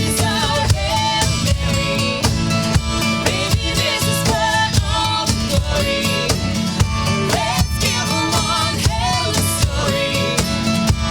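Acoustic country song performed live: strummed acoustic guitar with a steady rhythm and a singing voice.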